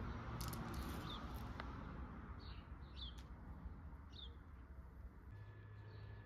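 A bird giving a few short, high chirps about a second apart over a low, steady background hiss. Near the end a faint steady high tone and a low hum come in.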